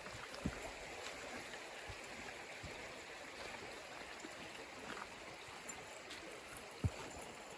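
Stream water running as a faint, steady wash, with two soft knocks: one about half a second in and one near the end.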